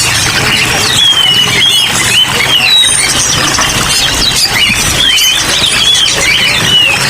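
Many caged songbirds chirping and whistling at once, short quick rising and falling calls overlapping without pause, over a steady hiss of falling rain.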